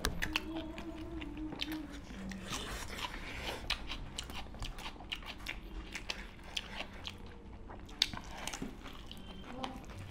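Close-up eating sounds of chicken curry, rice and raw onion eaten by hand: wet chewing, lip smacking and crisp crunches, a dense run of small clicks.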